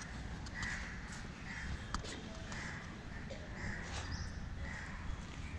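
A bird calling over and over, about once a second, with a few sharp clicks in between.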